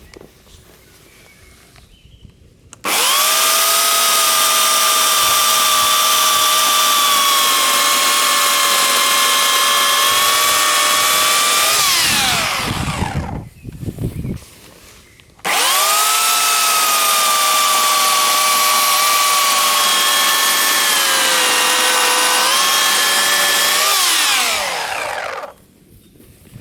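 Titan 2000 W corded electric chainsaw running at full speed in two long bursts of about nine seconds each, its motor whine holding steady with a slight dip in pitch in the second run. Each time the trigger is released the whine falls away quickly as the motor and chain run down.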